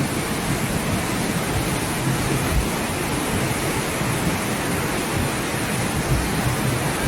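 Water rushing steadily: an even hiss with a low rumble underneath and no breaks.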